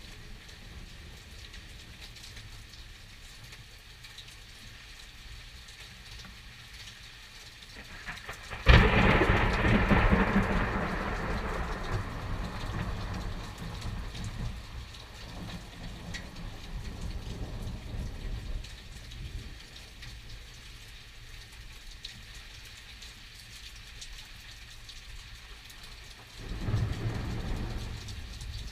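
Steady rain falling on surfaces, with a sudden sharp crack of thunder about a third of the way in that rumbles on and fades over about ten seconds. A second, weaker thunder rumble starts near the end.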